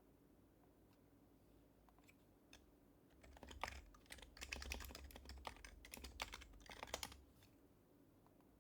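Typing on a Happy Hacking Keyboard Professional HYBRID Type-S, its silenced Topre keys giving soft, muted clacks. A few isolated keystrokes are followed, about three seconds in, by a quick burst of steady typing lasting about four seconds, which stops abruptly.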